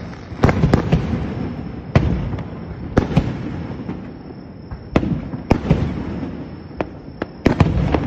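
Aerial firework shells bursting in quick succession: sharp bangs every half second to a second or so, each trailing off into a low rumble, with a denser cluster of bangs near the end.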